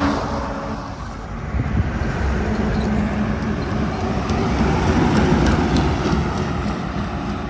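A heavy truck passing close by on a highway: engine rumble and tyre noise that build to a peak about five seconds in, then ease off.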